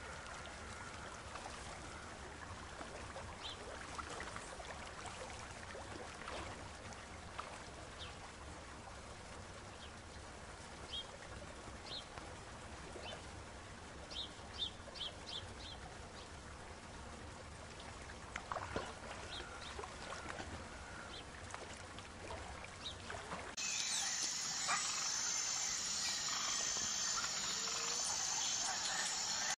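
Soft outdoor beach ambience of shallow water at the shore, with a few faint short high chirps in the middle. Near the end it cuts abruptly to a different, steady high-pitched drone with a faint repeating pulse.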